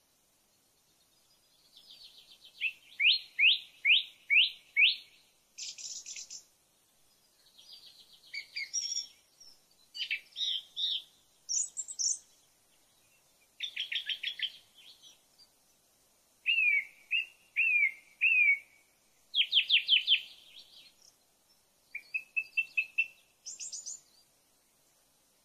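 A songbird singing a string of varied short phrases with brief pauses between them. Many phrases are quick runs of three to six repeated high notes, some sweeping downward and some slurred.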